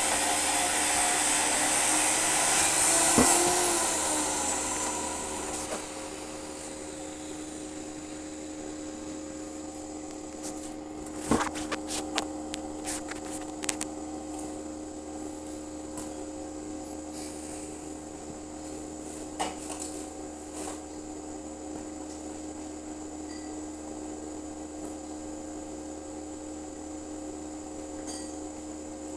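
Electric arc welding of steel bars, a loud crackling hiss for about the first five seconds that then fades out. A steady hum remains, with a few sharp knocks and taps in the middle.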